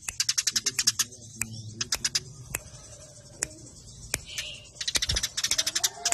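Eurasian tree sparrows in a fast, tight run of sharp chirps, the fighting song sought for tutoring songbirds. The chirps come densely at the start and again from about five seconds in, with fewer, scattered chirps in between.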